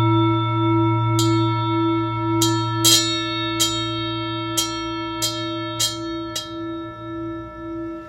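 Large Indian singing bowl ringing after a strike, its low tone pulsing slowly. A finger ring catches the rim about eight times in short buzzing clicks, interrupting the bowl's vibration as the ringing slowly fades.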